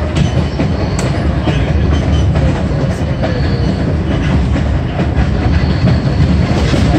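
Passenger train car rolling along the track, heard from inside the coach: a steady low rumble with a couple of sharp clicks from the wheels on the rails.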